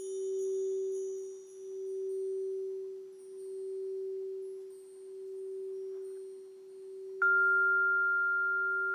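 Crystal singing bowl sounding one steady low hum that swells and fades in slow, even pulses. About seven seconds in, a higher bell-like note is struck once and rings on, while faint high chime tones die away.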